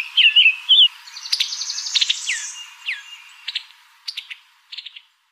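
Songbirds chirping: quick downward-sweeping calls, warbled phrases and short trills, thinning out and stopping shortly before the end.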